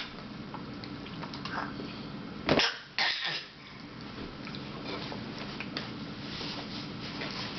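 A short cough, with a sharp loud burst about two and a half seconds in and a smaller one just after, over a steady low background hum.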